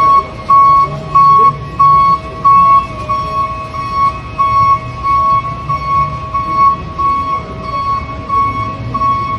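Electronic reversing-alarm-style beeping: a high beep repeating about every half second over a low engine-like rumble.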